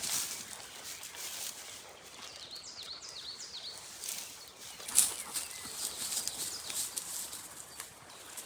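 A songbird calling a quick run of short falling chirps, over steady rustling and scattered small clicks, with one sharp click about five seconds in.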